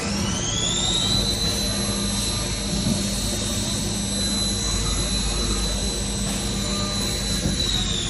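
Haas ST20Y CNC lathe spindle spinning up with a rising high whine, holding a steady whine at speed, then starting to wind down near the end, over a steady low machine hum.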